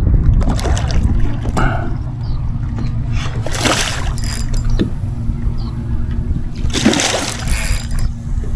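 Water splashing twice, about three and a half and seven seconds in, from a hooked red drum thrashing at the surface beside a kayak, over a steady rumble of wind on the microphone.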